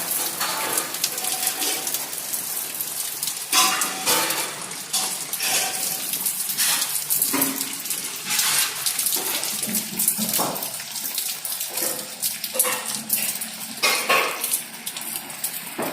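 Heavy rain falling and water running: a steady hiss, with short louder sounds now and then, some of them pitched.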